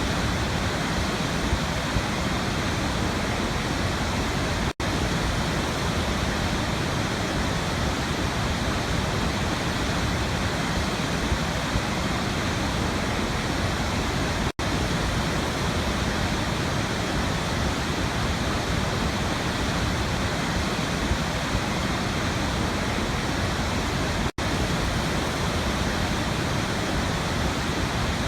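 Waterfall rushing in a steady, even roar of falling water, broken by a split-second gap about every ten seconds where the recording loops.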